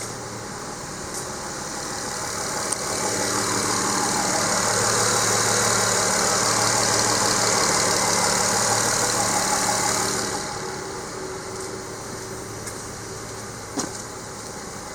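Nissan Fuga 350GT's VQ35HR 3.5-litre V6 idling steadily. A louder rushing hiss swells in a couple of seconds in, holds, and falls away about ten seconds in, while the engine's pitch stays the same.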